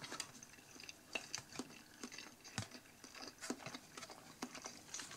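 Faint, scattered wet clicks and smacks of someone chewing a soft, cheese-filled meatball.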